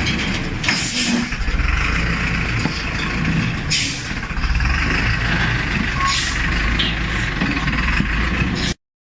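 Heavy truck's diesel engine running with a steady low rumble, broken by short hisses of compressed air from the air brakes about three times.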